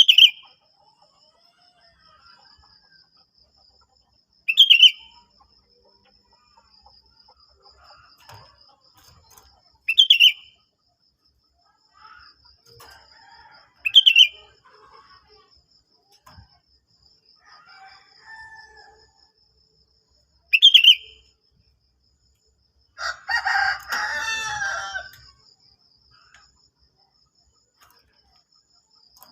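Sooty-headed bulbul (kutilang) giving short, loud calls five times, several seconds apart, over a steady high trill. About two-thirds of the way through comes one longer call of about two seconds, a rooster crowing.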